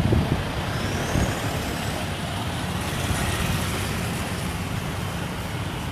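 Vehicle engines running close by, with a steady low rumble and a faint rising whistle about a second in.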